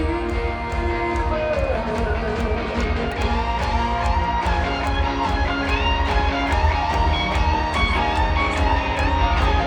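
Live rock band in an instrumental guitar section: electric lead guitar lines over strummed guitar, with a heavy bass coming in at the start.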